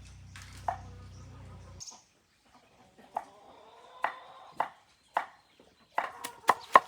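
Knife chopping vegetable peelings on a wooden cutting board: a few separate chops, then quick repeated chopping near the end.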